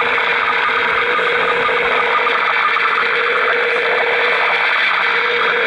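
Realistic DX-200 shortwave receiver putting out an unidentified signal near 9 MHz. It is a steady, dense buzzing hiss with a fast flutter and one constant tone running through it.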